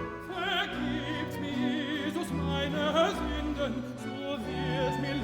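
A tenor singing a sustained, wavering line with strong vibrato over a Baroque string ensemble and continuo.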